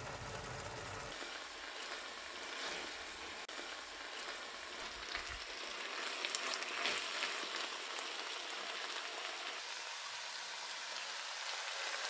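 Minced meat and tomato sauce sizzling steadily in a nonstick frying pan. Between about five and seven seconds in, a wooden spatula stirs through it, adding crackles and scrapes. It cuts off suddenly at the end.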